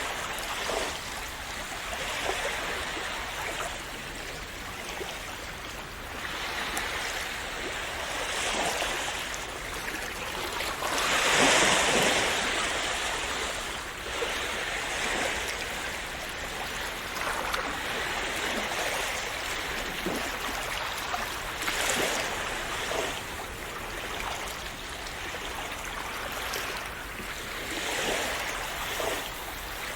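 Calm sea waves splashing and washing onto a shore, swelling and easing every few seconds, with the largest wash about a third of the way through.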